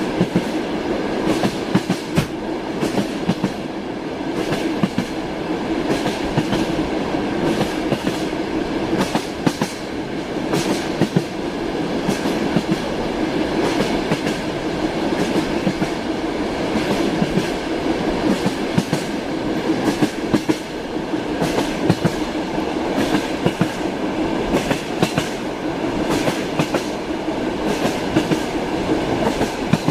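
Train wheels clacking over rail joints, repeated sharp clicks over a steady rolling rumble of a moving railway carriage.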